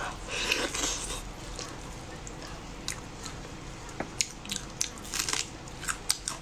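Biting and tearing into braised pig's trotters, a dense burst about half a second in, then wet chewing with many short, sharp clicks.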